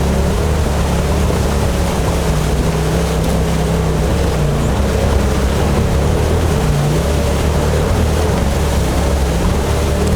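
Polaris RZR XP Turbo S side-by-side's turbocharged twin-cylinder engine running at a fairly steady pace, its pitch wavering slightly with the throttle, over a constant rush of wind and water noise.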